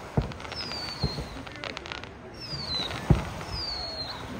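Fireworks shells bursting: three booms, the loudest about three seconds in, with a short spell of crackling near the middle. A thin, high, falling whistle recurs about every second and a half behind them.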